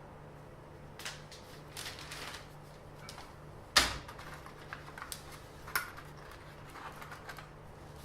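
Handling noise: a few scattered clicks and light taps, with one sharp knock just under four seconds in.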